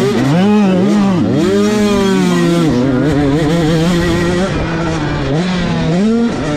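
Motocross bike engines revving hard, their pitch rising and falling with the throttle, then holding fairly steady.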